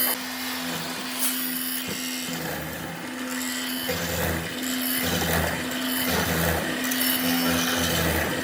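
A power tool running with a steady hum as it works wood, with repeated lower surges as it bites in.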